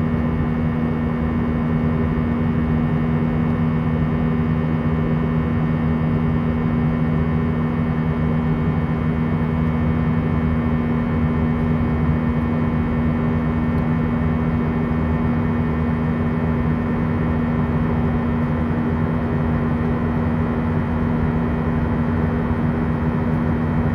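Steady cabin noise of an Airbus A319 in flight: the even drone of jet engines and rushing air, with a constant low hum under it.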